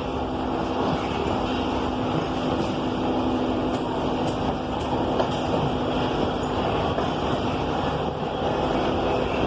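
Moving passenger train running steadily: a continuous rumble of the wheels and carriages on the track, with a faint steady hum underneath.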